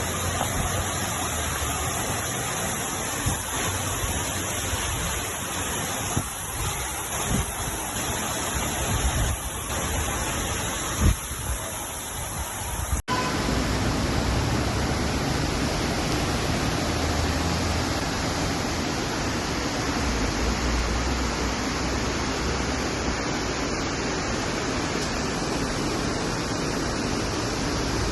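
Heavy rain and running water: a steady rushing noise, with a sharp knock about eleven seconds in and an abrupt cut to another recording of the same rushing about halfway through.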